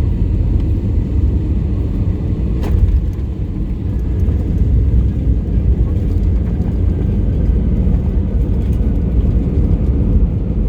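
Steady low rumble of an airliner's engines and airflow heard inside the cabin of a regional jet in flight, with one short click about two and a half seconds in.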